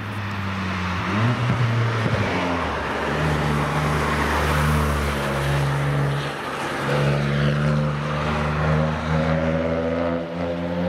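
Cars driving past at speed under hard acceleration, their engine notes holding and slowly rising in pitch; one car's sound gives way to another's about six to seven seconds in.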